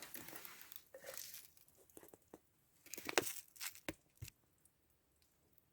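A small packet of citric acid powder being torn open and crinkled: a rustling tear at first, then a cluster of sharp crackles and clicks midway.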